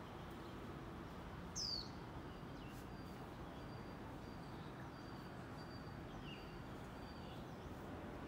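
Small songbird calling over a steady background hum: one sharp falling chirp about a second and a half in, then a run of faint, high, short notes repeated about twice a second.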